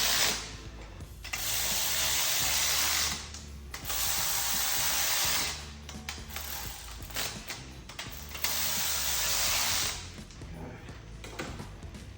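Hand ratchet wrench clicking in several runs of a second or so each, with short pauses between, as a part on the engine is tightened.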